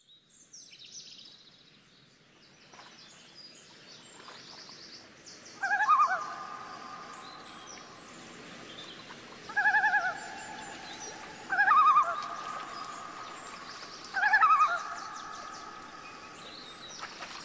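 Birds calling: high chirps throughout, and from about six seconds in four loud calls a few seconds apart, each a quick warble that settles into a long held note.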